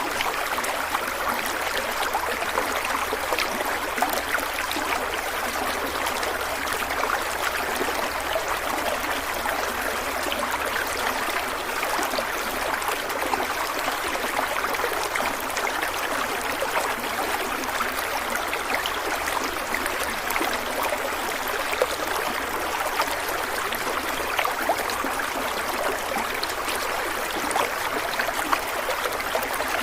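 Stream of water flowing: a steady, even rush with many small splashes and trickles.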